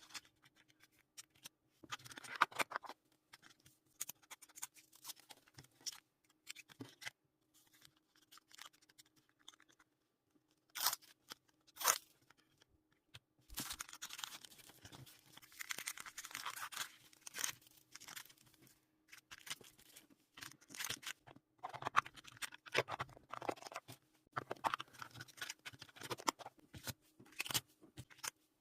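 Photocard packing: plastic sleeves and packing materials being handled, with on-and-off crinkling, rustling and scratching of plastic and paper, and a few sharper tearing sounds.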